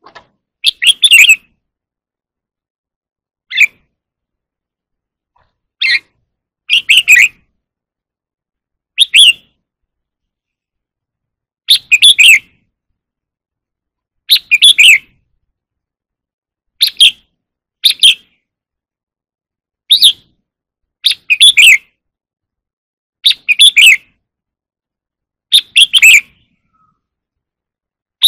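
Red-whiskered bulbul singing short, loud song phrases, one every two to three seconds with silent gaps between, of the 'ché kích bổi' song type prized by Vietnamese bulbul keepers.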